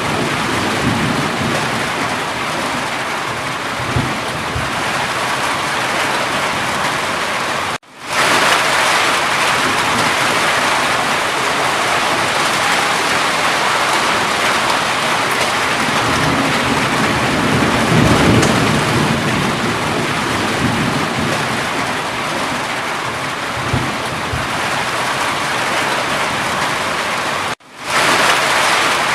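Steady heavy rain, with low rumbles of thunder swelling now and then. The sound drops out briefly twice, about eight seconds in and near the end, then comes straight back.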